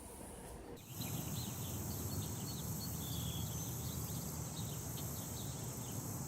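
Insects trilling steadily with many short, high bird chirps over a low rumble, beginning about a second in.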